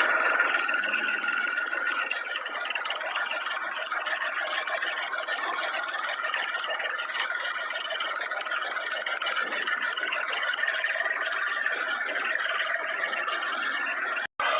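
Tractor engine running steadily, heard as a dense, even mechanical noise; the sound cuts off abruptly near the end.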